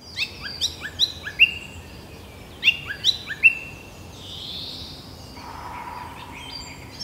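Birds calling: two quick runs of sharp, falling chirps, about four in each run, over the first few seconds, then a softer hiss.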